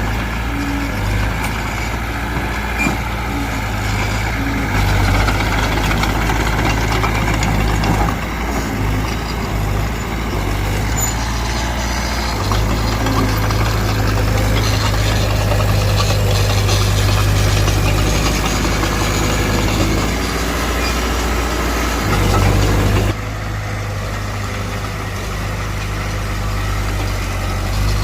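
Diesel engine of earthmoving machinery running, its level rising and easing as it works, dropping suddenly about five seconds before the end.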